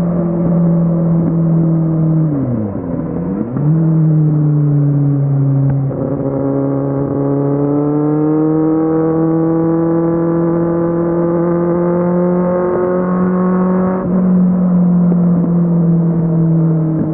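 Kawasaki Z750's inline-four engine running under way, with a quick dip and recovery in revs about three seconds in, like a gear change, then a slow rise in pitch over several seconds before settling.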